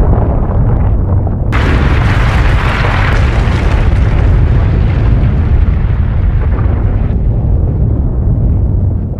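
Explosion sound effect: a heavy, continuous low rumble, with a blast coming in about a second and a half in and dying away over several seconds.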